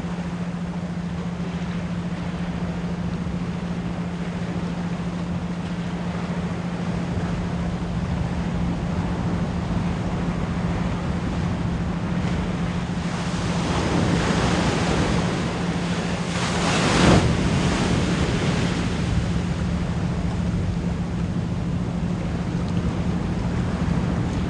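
Ocean waves washing on a shore, with a low 174 Hz pure tone layered underneath. A bigger wave builds and breaks about two-thirds of the way through.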